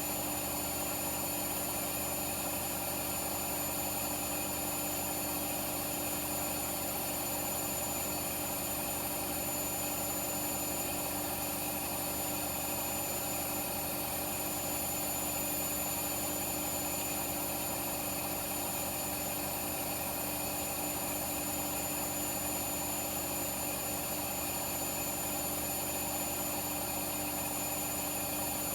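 Front-loading washing machines running at a steady speed: a constant motor hum and whine with several fixed tones and no tumbling rhythm or change.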